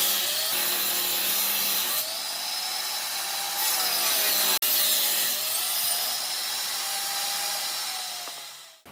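Electric power tool running on wood, with a hissing cut and a motor whine whose pitch dips and recovers as the tool is loaded. It fades out just before the end.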